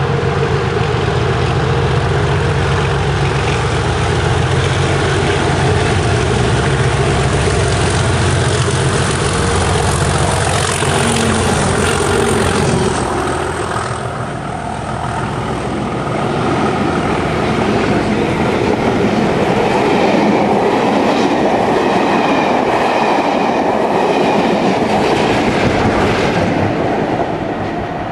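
A diesel locomotive approaching and running through, its engine note heard for the first half, then passenger coaches clattering past over the rail joints.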